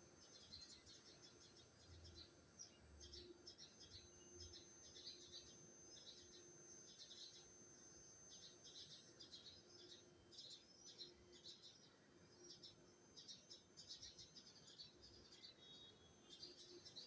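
A small bird chirping: faint, high chirps in quick clusters, repeating with short gaps throughout.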